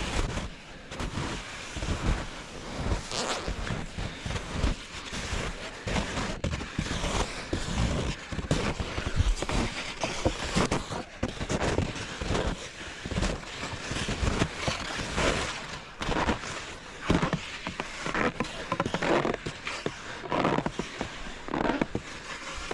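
Footsteps crunching through snow, with clothing and branches brushing and scraping, in an uneven walking rhythm.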